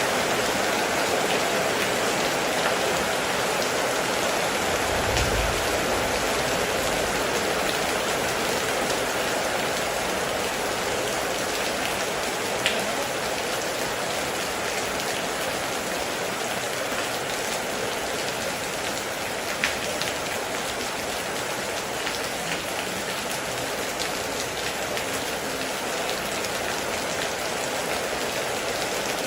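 Heavy rain falling steadily, an even rushing hiss of dense drops. There is a brief low rumble about five seconds in and a couple of sharp drip ticks later on.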